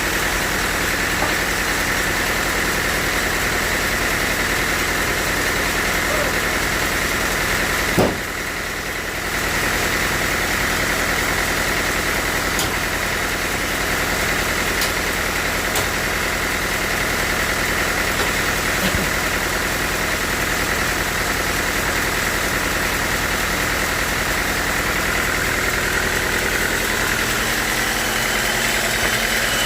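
Sawmill machinery running steadily with an engine-like drone and a high whine, with no change of load. There is a sharp click and a brief dip about eight seconds in.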